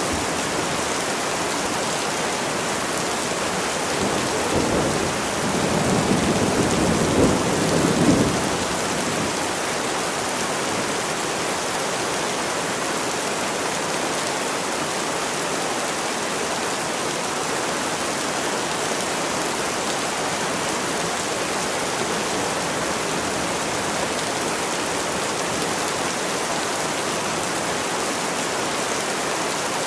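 Steady heavy rain, with a rumble of thunder swelling about four seconds in and dying away around eight seconds in.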